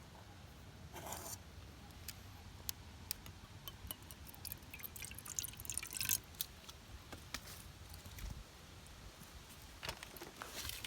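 Water dripping: irregular drops and light ticks, more of them together about five or six seconds in, over a faint low hum.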